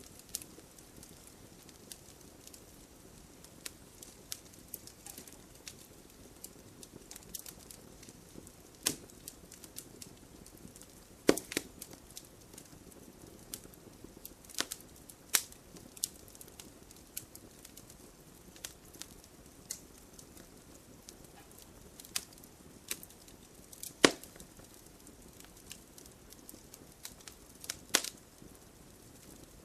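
Wood fire burning in a fireplace: a soft steady hiss with irregular crackles and sharp pops from the logs, a few louder snaps scattered through.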